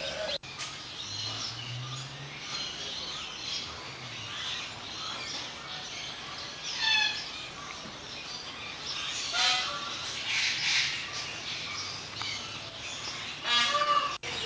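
Many small birds chirping and calling, with a few louder, harsher calls about halfway through and again near the end.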